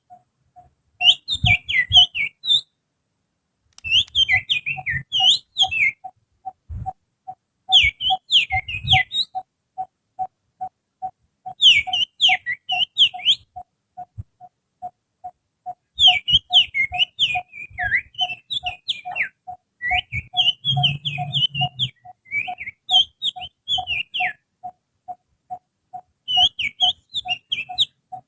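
Human finger whistling that imitates the song of an oriental magpie-robin (kacer): bursts of quick, sliding high whistled notes, each lasting a second or two and coming every couple of seconds. Under them a fainter steady pip repeats about twice a second.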